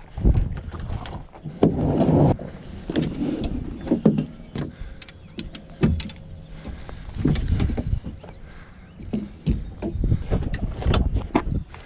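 Irregular knocks, thumps and clatter, like gear being handled in a plastic kayak, over a low rumble.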